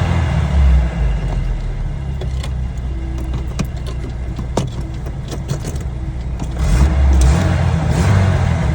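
Scattered clicks and small knocks of the loose accelerator pedal being pushed back onto its mount in the footwell of a 1981 Toyota pickup, over a steady low rumble.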